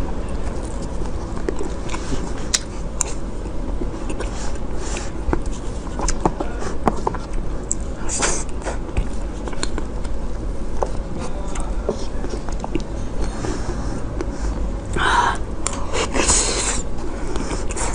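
Close-miked eating sounds: soft chewing with scattered small mouth clicks, and a few short hissy bursts about eight seconds in and again near the end.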